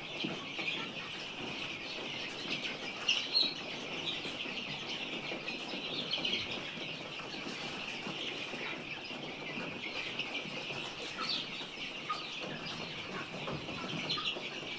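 A flock of chickens clucking and calling all at once in a steady, dense chatter, with a few louder calls standing out about three seconds in.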